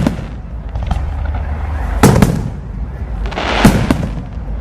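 Fireworks bursting: a faint bang about a second in, two loud bangs close together about two seconds in, and another loud bang near the end, each with an echoing tail, over a steady low rumble.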